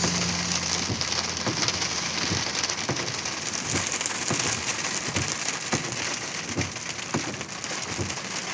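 Heavy rain pouring down in a strong storm: a dense, steady hiss with many separate drops striking a surface close by in irregular clicks.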